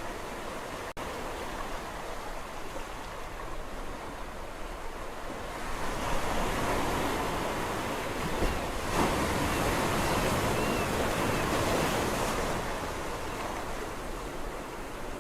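Sea waves washing on the shore. A wave swells louder about halfway through, then eases back to a steady wash.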